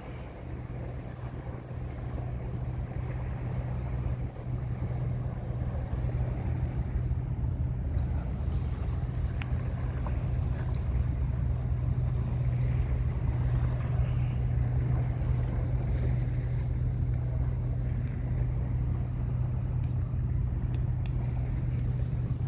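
Seaside wind buffeting the microphone, a steady low rumble with an underlying low hum that swells over the first few seconds and then holds.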